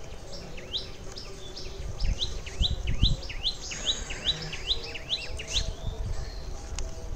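A bird calling over and over: a string of short rising whistled notes, two or three a second, that stops about five and a half seconds in, over a low rumble.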